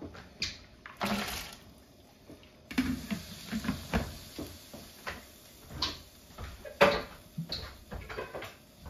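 Water running from a kitchen tap into a sink, with a short splash about a second in and a steady flow from nearly three seconds on, over repeated knocks and clatter of things being handled in the sink.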